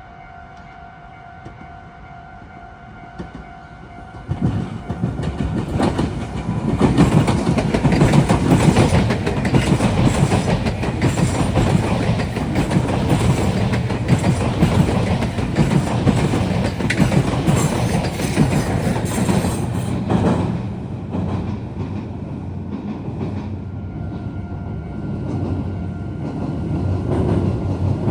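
Meitetsu electric train passing close by over junction points, wheels clattering over rail joints with a loud rumble that builds about four seconds in and eases after about twenty seconds. Steady tones of a level-crossing warning bell are heard before the train arrives, and another train's rumble builds again near the end.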